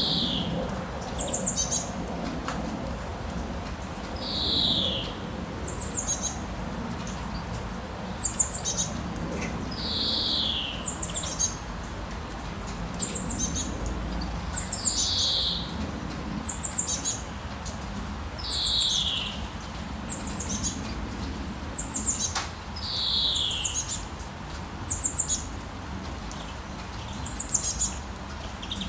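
Birds calling in a rainforest ambience: one bird gives a falling call about every five seconds, with shorter high chirps from another bird in between, over a steady low background noise.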